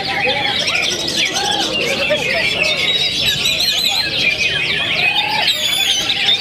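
Several cucak ijo (greater green leafbirds) singing at once, a dense, continuous tangle of fast chirps, trills and warbled phrases overlapping one another, as contest birds do in full song during judging.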